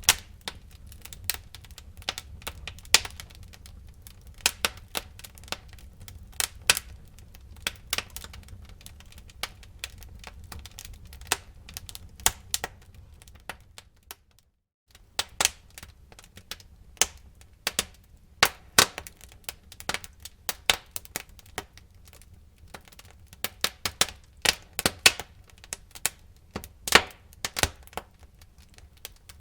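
Wood fire in a fireplace crackling and popping: irregular sharp cracks, several a second, over a steady low rumble of flames. The sound drops out for about a second around halfway.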